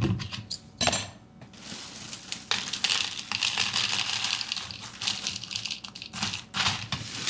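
Dry Oreo O's cereal being poured into a bowl: scattered clicks at first, then a dense, steady rattle of pieces hitting the bowl and each other from a couple of seconds in.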